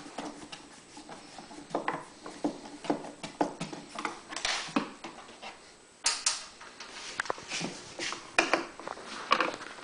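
Hand work on a Champion 3100-watt generator's plastic cabinet with a Phillips screwdriver: an irregular series of short clicks, knocks and small squeaks as screws are backed out and parts are handled, with a brief lull just before the middle.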